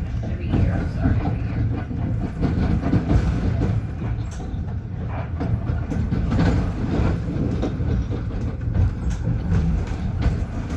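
Long Island Rail Road M3 electric multiple-unit train running at speed, heard from inside the passenger car: a steady low rumble with irregular clacks and knocks of the wheels over the rails.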